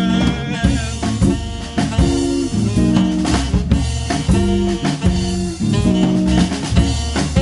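Jazz band playing an instrumental passage without vocals: guitar chords over drum kit and double bass.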